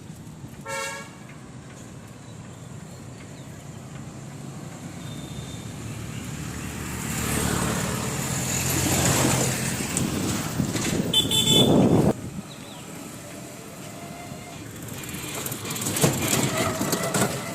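Street traffic passing close: a short horn toot about a second in, then a vehicle swelling to its loudest with a high beep before cutting off suddenly about twelve seconds in. Near the end the traffic rises again with another horn.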